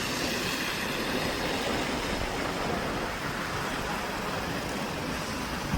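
Steady road noise of a vehicle driving: an even rushing hiss with no distinct engine note or impacts.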